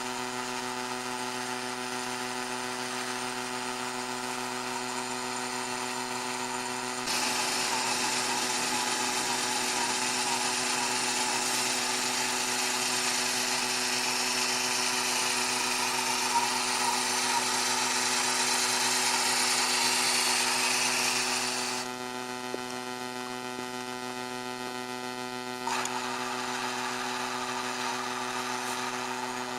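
A small motor running with a steady hum. From about seven seconds in until about twenty-two seconds, a louder rushing, grinding noise rides over it, then drops away. The sound shifts again about four seconds before the end.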